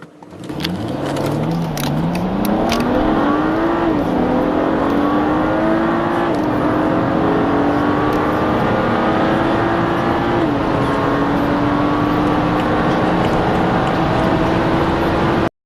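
A car engine accelerating hard from a standstill. The revs climb and drop back sharply at each of four upshifts, about 1.5, 4, 6 and 10.5 seconds in, then hold fairly steady near the end.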